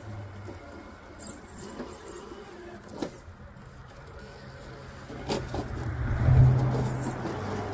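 RC rock crawler driving over rock: its electric motor and geared drivetrain hum steadily under load, with a couple of sharp clicks as the truck knocks on rock. The hum swells louder about six seconds in.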